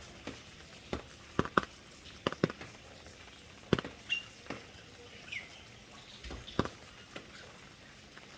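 Rain dripping: large drops fall irregularly, tapping sharply on surfaces over a soft steady hiss. Two brief high chirps come near the middle, the second falling in pitch.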